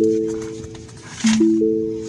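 Lincoln's mellow electronic warning chime: three rising notes struck in quick succession, each ringing and fading, with the figure repeating about every second and a half.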